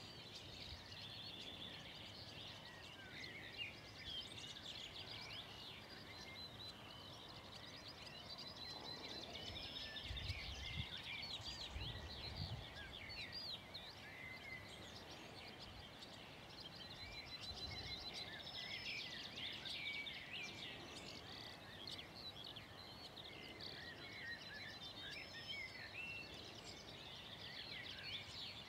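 Several songbirds singing continuously, faint, with a low rumble of distant thunder about ten to thirteen seconds in.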